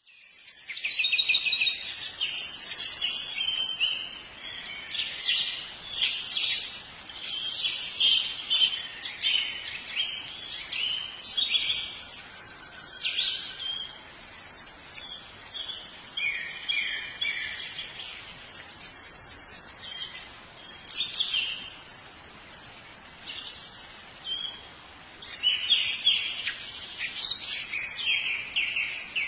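Songbird singing: quick high chirps and trills in phrases of a second or two, one after another with short pauses between them.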